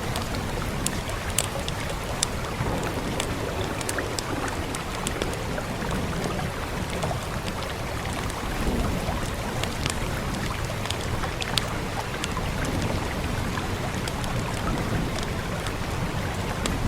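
Fireplace crackling, with sharp pops scattered at irregular intervals over a steady hiss of rain and a low rumble.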